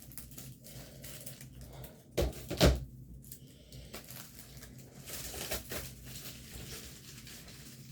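Items and packaging being handled by hand: light rustling and crinkling, with two sharp knocks a little over two seconds in, about half a second apart.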